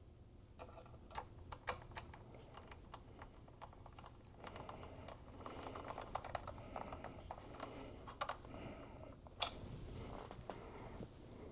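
Small logic board screws being driven into an iMac with a screwdriver: a run of light clicks and ticks, busiest in the middle, with one sharper click about nine seconds in.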